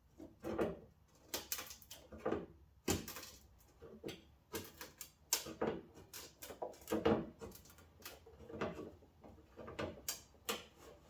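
A Jeep Cherokee XJ fender flare being bent back into shape by hand: an uneven string of creaks, knocks and rubbing, with a few sharp clicks.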